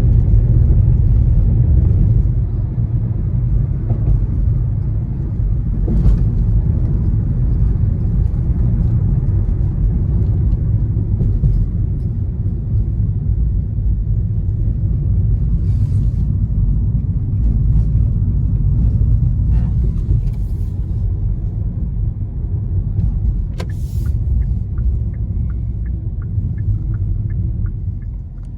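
Steady low rumble of a moving vehicle, with a few scattered clicks and, near the end, a quick run of light, evenly spaced ticks.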